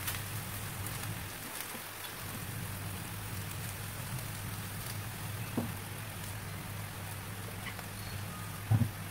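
Steady frying hiss of vegetables and rice vermicelli in a stainless steel wok, with a light tap about halfway through and a louder knock near the end.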